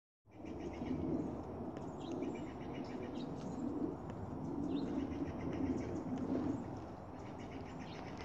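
Birds outdoors: a low cooing that repeats every second or so, with faint, scattered chirps higher up over a low rumble.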